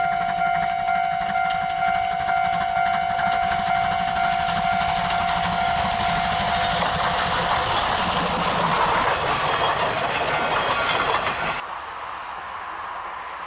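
C12 66 steam locomotive running with its train, a hiss of exhaust steam and rail noise with a regular pulse, over a steady high tone in the first half. The level drops suddenly near the end to quieter train noise.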